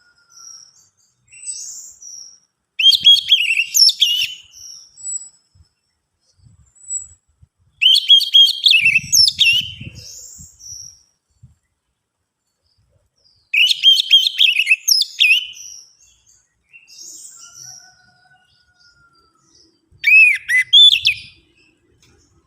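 Orange-headed thrush singing: four loud, rich, warbling song phrases of a second or two each, spaced about five seconds apart, with soft high calls and a faint thin whistle in the gaps.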